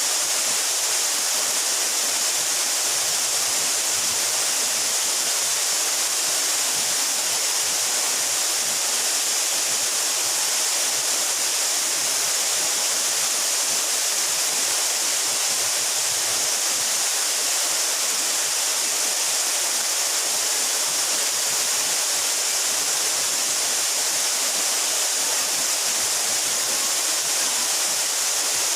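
Waterfall splashing down into a pool in a steady, unbroken hiss.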